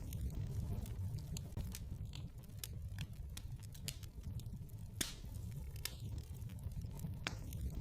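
Wood fire crackling in a fireplace: irregular sharp pops and snaps over a low steady rumble, with a louder pop about five seconds in.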